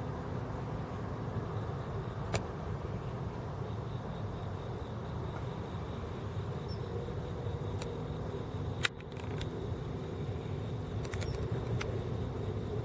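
Steady low rumble of distant road traffic, with a few sharp clicks: one early, a louder one about nine seconds in, and a small cluster near the end.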